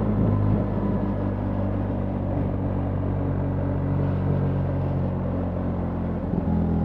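BMW R 1300 GS boxer-twin engine running steadily under way, with wind and road noise. The engine note shifts about half a second in and again near the end.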